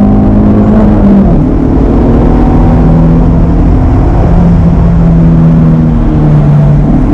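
Honda K-series four-cylinder in a K-swapped Toyota MR2 pulling the car along, heard from inside the open-roof cabin. Its note holds steady, drops in pitch in a few steps and rises again near the end, over road and wind noise.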